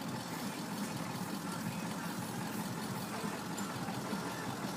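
Steady engine and road noise of a large van, heard from inside its cabin.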